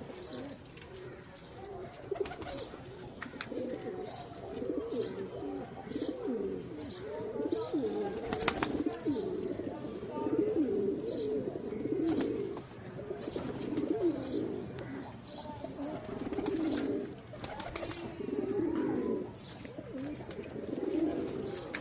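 Domestic Teddy pigeons cooing over and over, low wavering coos every second or two, with faint high chirps among them.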